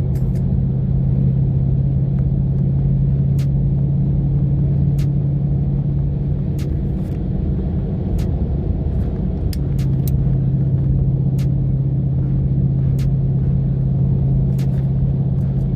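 A car engine running with a steady deep rumble. It falls off about seven seconds in and comes back strong about two seconds later, with scattered sharp clicks throughout.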